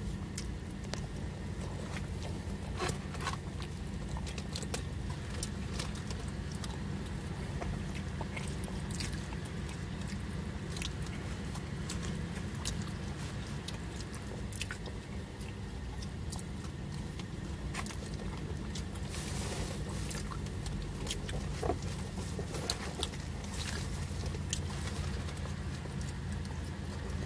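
A person chewing and eating from a foam takeout box with a plastic fork: chewing with scattered short clicks and scrapes, over a steady low hum.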